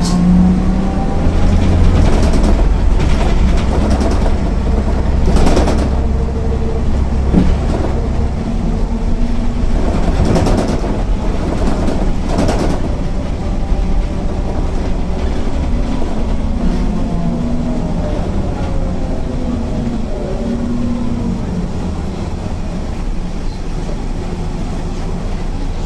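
MAN NL 262 city bus driving, its engine droning deeply for the first eight seconds before the note changes, with a faint whine falling in pitch later on. A few short knocks and rattles from the body come through along the way.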